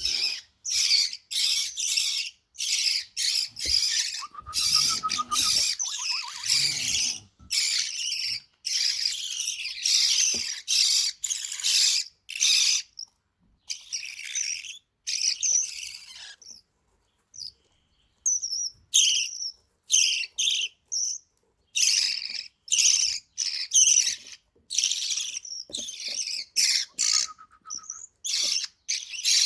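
Lovebird chicks begging for food: rapid, raspy, high-pitched cheeps in dense bursts, with a short lull about halfway through.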